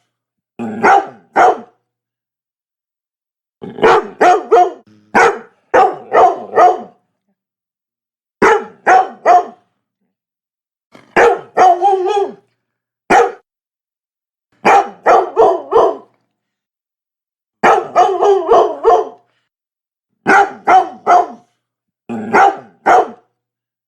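Labrador dog barking in short bursts of two to five loud barks, with silent pauses of a second or two between bursts.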